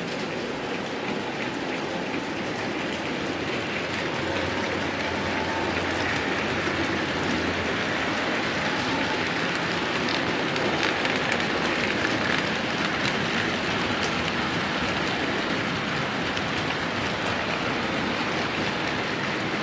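HO-scale model freight train, a D52 steam locomotive model with a long rake of wagons, running along the track: a continuous fine clatter of many small metal wheels over the rails and rail joints, swelling a little in the middle.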